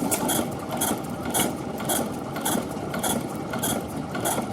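Early-20th-century Benz & Cie inverted stationary engine running slowly, with a crisp mechanical clatter about twice a second over a steady running rumble.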